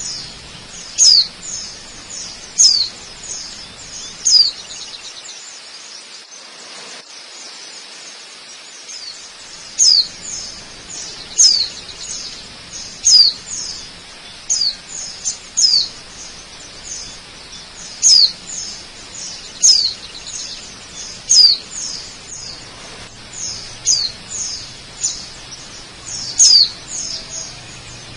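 A bird calling over and over with short, high chirps that fall in pitch, one every second or two with a pause about five seconds in, over a steady rush of falling water.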